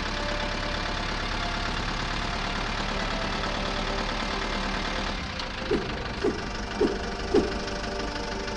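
Small motor running steadily with a buzzing rattle. Near the end come four short, sharp pitched blips about half a second apart.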